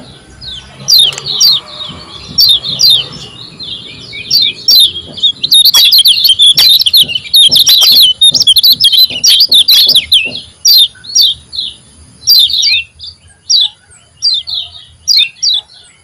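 Kecial kuning song: rapid series of short, falling high chirps, densest in the middle and thinning out near the end. It is a lure recording meant to coax a reluctant kecial kuning into singing.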